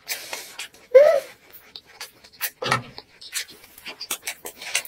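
Mouth sounds of chewing a full mouthful of king crab: wet chewing and lip-smacking clicks, a breath through the nose at the start, and a short hummed "mm" of appreciation about a second in, with a low throaty sound a little later.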